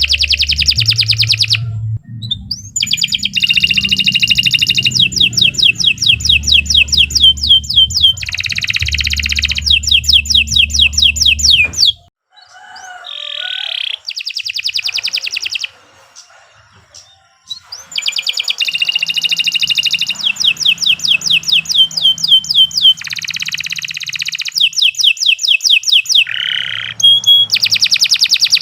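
Domestic canary singing a long, loud song of rapid trills and chirps, with a short break about halfway through before it starts up again.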